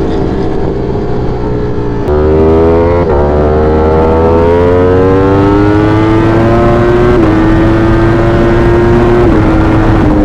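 V4 sport motorcycle engine heard from the rider's own bike with wind noise: throttle opens about 2 s in and the engine pitch climbs steadily as it accelerates, then drops with an upshift about 7 s in and steps again near the end.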